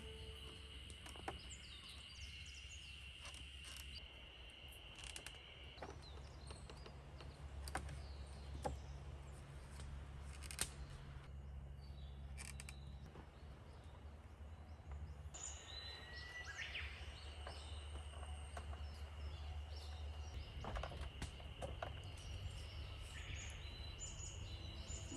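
Outdoor ambience with small birds chirping now and then, over a steady high-pitched buzz that drops out for several seconds in the middle and a low rumble. A few faint clicks.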